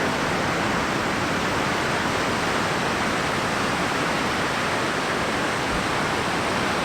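Steady rush of Pacific surf breaking on the beach, mixed with wind rumbling on the microphone.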